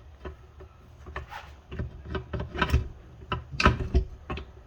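Honda Civic manual transmission case being worked down over the gear shafts onto the other case half: a run of irregular knocks and clunks.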